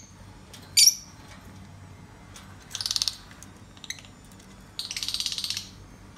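Fischer's lovebirds calling: one short, shrill chirp about a second in, then two buzzy, rapidly pulsing chatters, one about three seconds in and one about five seconds in.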